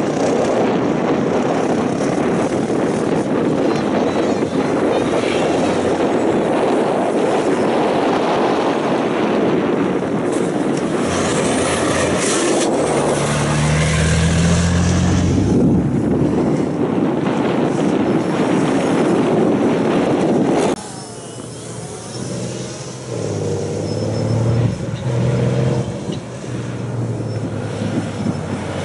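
Dakar rally race trucks driving past with their engines running hard under a loud rushing noise. About two-thirds of the way through, the sound drops suddenly to a quieter engine note.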